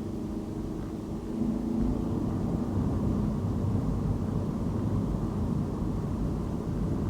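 Car being driven on a city road: a low engine and tyre rumble that grows louder about a second and a half in.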